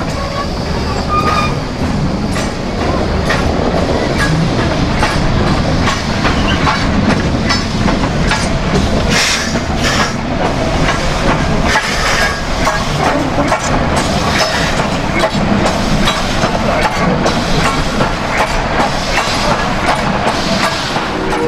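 Narrow-gauge steam train running past, a steady loud rumble with its wheels clicking rapidly over the rail joints.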